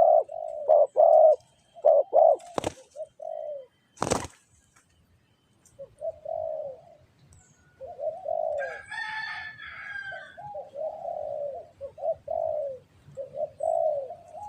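Spotted dove (tekukur) cooing over and over in short repeated phrases. Two sharp clicks cut in a few seconds in, and a brief burst of higher chirping comes about halfway through.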